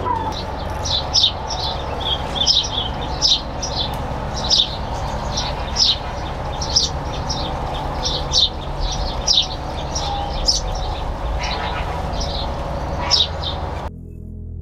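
Small birds chirping: short high chirps, one or two a second, with a low steady rumble underneath. Near the end it cuts to soft ambient music.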